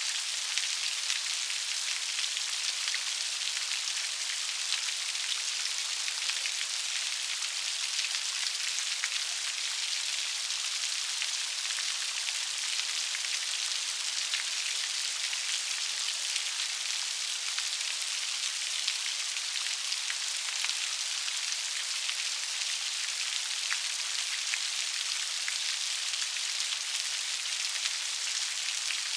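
Steady rain falling, with a dense, even patter of raindrops that makes a bright hiss.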